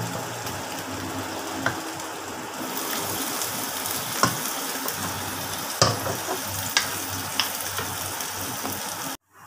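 Beef and bell pepper stir-fry sizzling in a nonstick wok, with a wooden spatula scraping and giving several sharp knocks against the pan as the food is scooped out. The sizzle cuts off suddenly near the end.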